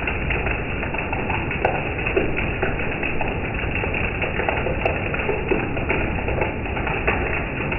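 Steady rain falling, a constant hiss with many small drops ticking and tapping.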